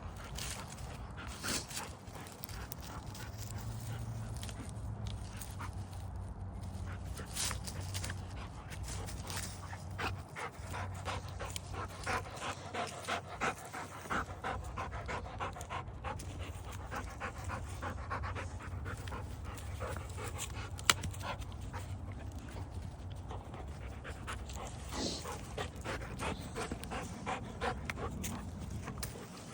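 Rottweiler panting steadily, with many short clicks and taps mixed in and one sharp tap about two-thirds of the way through.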